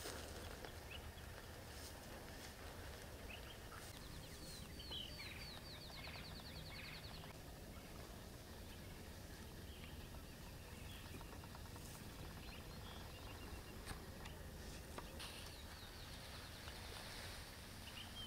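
Birds calling outdoors: a fast run of high repeated chirps about four seconds in, and more high calls near the end, over a faint low rumble of wind.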